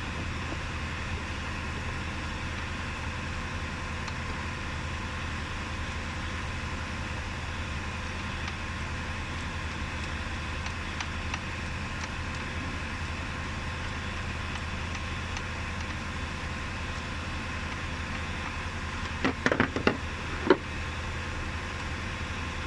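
Steady low mechanical hum of a running motor, with a quick run of five or six sharp clicks near the end.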